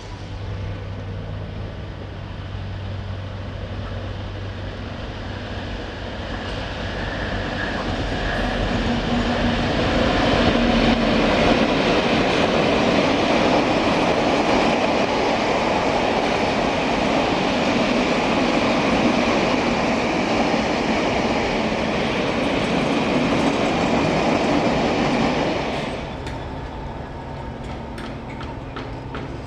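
A train passing at speed on the line: the rushing noise builds over several seconds, holds loud for about fifteen seconds, then drops away abruptly near the end.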